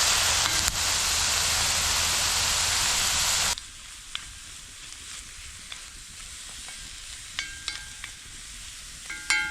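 Mushrooms, onions and red pepper sizzling in olive oil in a cast iron mini wok. The sizzle is loud, then drops suddenly about three and a half seconds in to a quieter sizzle with light clicks, and a brief ringing clink comes near the end.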